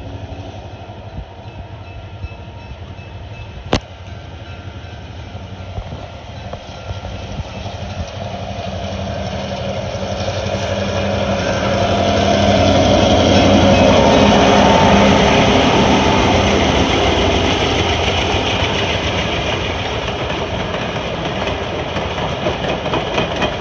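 Diesel locomotive hauling passenger coaches as it approaches and passes close by at slow speed. The engine sound swells to its loudest a little past halfway, then gives way to the rolling and clacking of the coaches' wheels on the rails as the cars go by.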